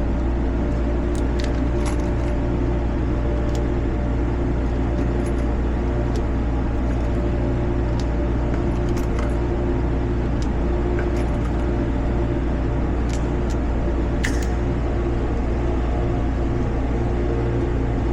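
Light metallic clicks and clinks scattered over a steady low hum: cartridges being handled and loaded into the cylinder of a Smith & Wesson 640 revolver.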